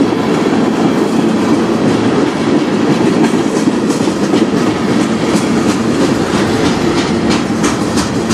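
Freight cars of a passing manifest train, tank cars and gondolas, rolling by close at hand: a steady rumble of steel wheels on rail. From about three seconds in comes a run of sharp clicks as the wheels cross rail joints.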